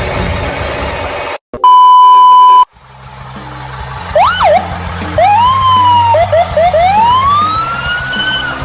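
Noisy rumble that cuts off abruptly, followed by a loud steady beep lasting about a second. After a pause, an electronic siren starts about four seconds in, sounding repeated rising whoops that grow longer toward the end.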